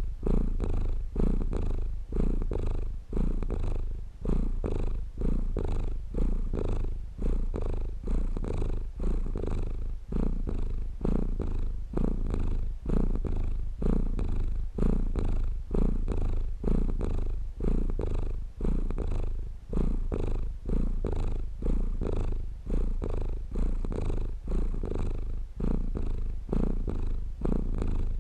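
A domestic cat purring steadily, close up, in an even rhythm that swells and fades about once a second.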